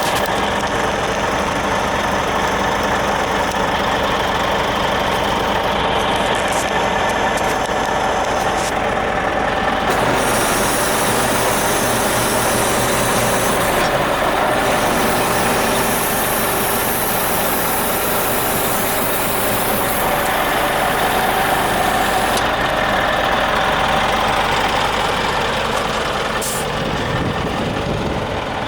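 Scania G450 truck's diesel engine running steadily, with a high hiss coming and going in the middle.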